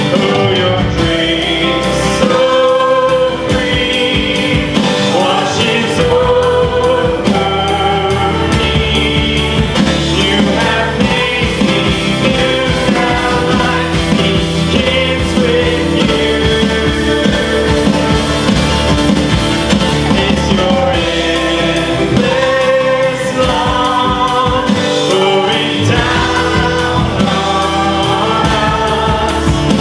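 Live church worship band playing a contemporary worship song, with singing over the band.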